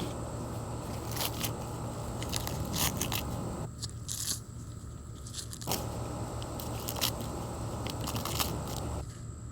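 Corn husks and stalks crackling and crunching as ears are handled and pulled, with irregular sharp snaps scattered through.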